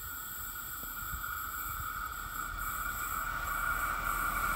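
An approaching train, not yet in sight: a steady low rumble and a hum that grow gradually louder as it nears.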